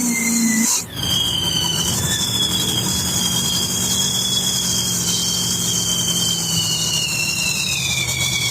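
Monster truck engine running, with a high steady whine that slowly falls in pitch above a low drone.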